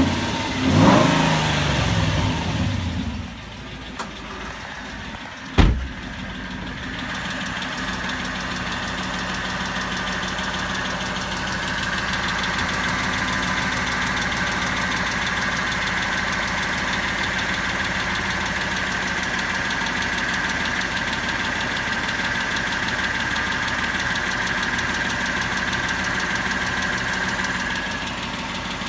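Car engine revving briefly, with one sharp knock about five and a half seconds in, then settling into a steady idle with a fast, even ticking.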